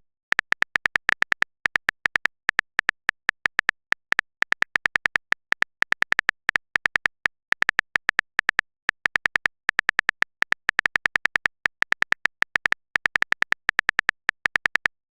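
Rapid, irregular clicking of a smartphone keyboard typing sound effect: several short taps a second, with brief pauses, as a chat message is typed out.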